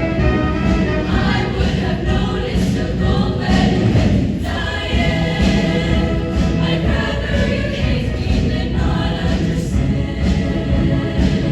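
Show choir singing in full ensemble over loud instrumental accompaniment with a steady beat.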